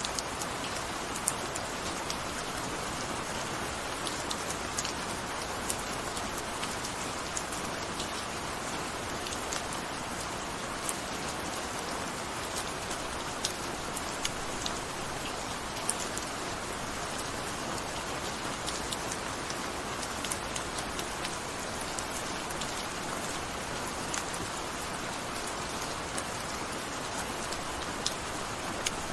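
Steady gentle rain falling, an even hiss with scattered sharp drip ticks throughout.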